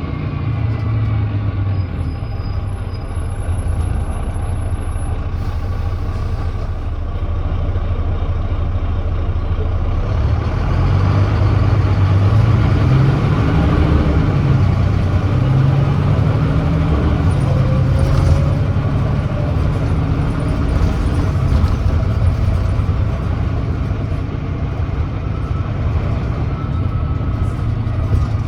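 Volvo B9TL double-decker's Volvo D9B 9.3-litre engine, heard from on board, idling with a short hiss of air about five seconds in. About ten seconds in the bus pulls away hard, the engine note rising and dropping back as the ZF Ecolife automatic shifts up from first to third.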